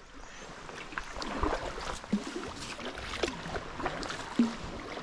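Sea kayak paddling: the blades dipping and splashing in the sea in irregular strokes, with water dripping and lapping at the hull.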